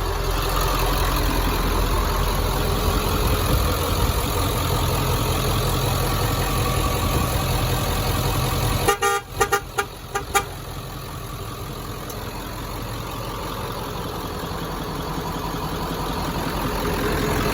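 Ford 7.3L Power Stroke turbo-diesel V8 idling steadily. About nine seconds in come a few short, loud toots, most likely quick taps on the truck's horn.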